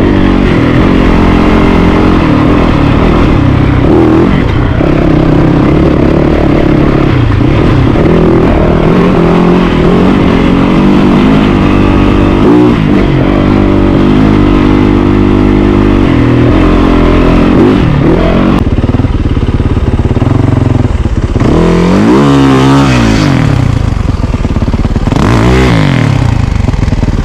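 Yamaha YZ450FX dirt bike's single-cylinder four-stroke engine ridden hard off-road, its revs rising and falling with the throttle and gear changes. Near the end the revs drop sharply and climb back twice in quick succession.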